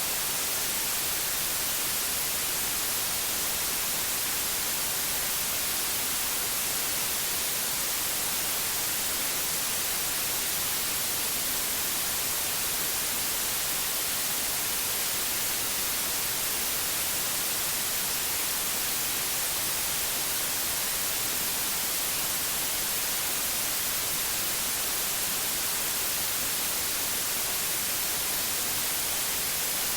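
Electronically generated white noise: a steady, even hiss that never changes.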